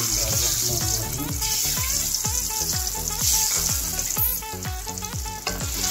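Boiled eggs sizzling in hot spiced oil in a steel pan, the sizzle flaring up twice as more eggs go in. Background music with a steady beat plays underneath.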